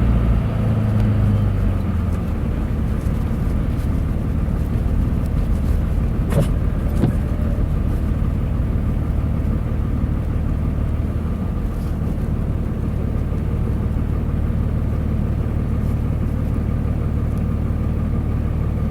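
Steady low drone of a pickup truck's engine and road noise, heard from inside the cab as it drives slowly.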